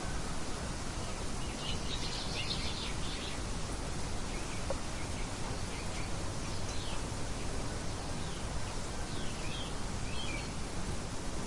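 Steady hiss of rain, with small songbirds chirping over it: a busy cluster of chirps about two seconds in and more scattered calls later on.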